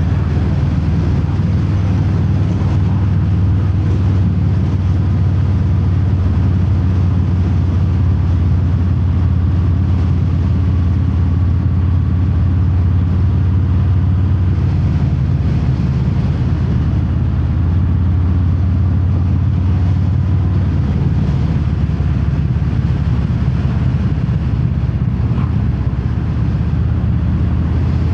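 Harley-Davidson Fat Bob's Milwaukee-Eight V-twin running steadily on the move, exhaust through Vance & Hines Hi-Output slip-on mufflers with no quiet inserts, heard from inside the rider's helmet.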